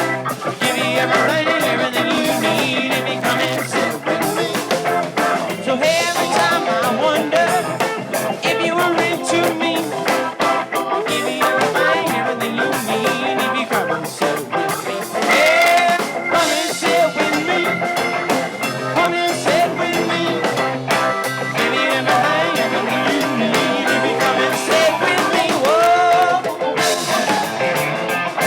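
Live rock band playing, with an electric guitar lead of bent notes over a drum kit; one high note is held for several seconds about halfway through.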